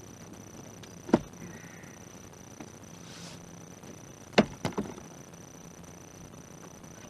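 Three sharp knocks: one about a second in, then two close together a few seconds later.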